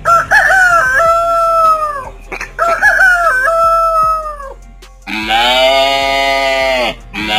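A rooster crowing twice, each crow about two seconds long, then a longer, lower-pitched call a little after five seconds in.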